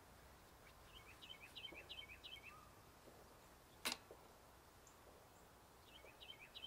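A songbird singing faintly: two short phrases of quick repeated chirps, about a second in and again near the end. A single sharp click sounds just before the middle.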